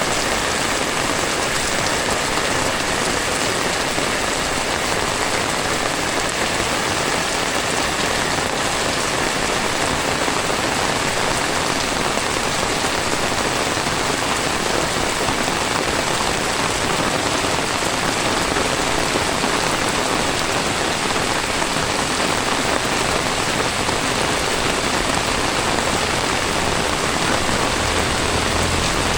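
Heavy tropical rain pouring down steadily, a dense even hiss of rain on the ground and surfaces. Near the end a low rumble starts to build underneath.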